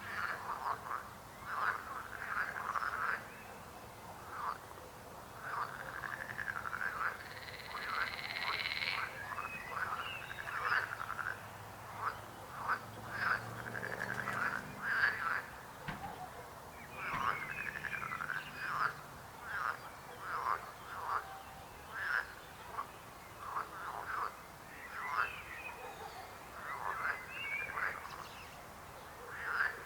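A chorus of frogs croaking: many short calls in quick succession, several frogs overlapping, with a longer, higher buzzing call for about two seconds a quarter of the way in.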